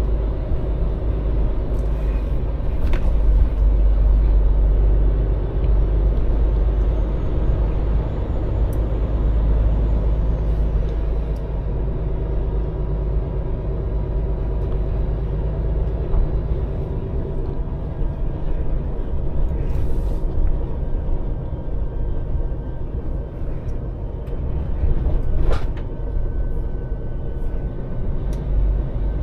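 Scania lorry driving, its engine running under a steady low rumble, with a few short sharp clicks.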